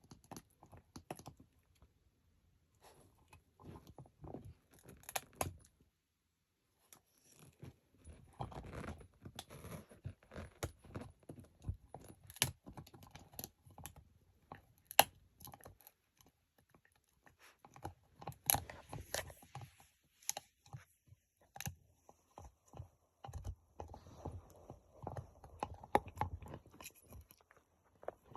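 A puppy chewing and gnawing on a chew, irregular crunching clicks and short tearing sounds in spells, with brief pauses between them.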